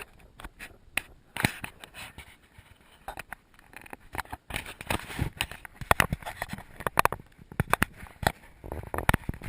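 Irregular clicks and scraping close to the microphone, with no engine running.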